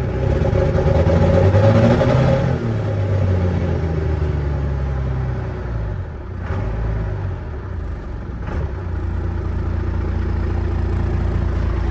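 12-valve Cummins diesel engine in a pickup truck, warming up after a repair: revved up over the first couple of seconds, then easing back down and settling to a steady idle.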